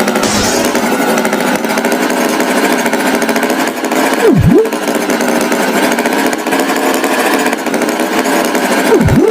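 Cartoon tractor engine sound effect: a steady, loud buzzing drone, with a quick swooping dip and rise in pitch about halfway through and again near the end.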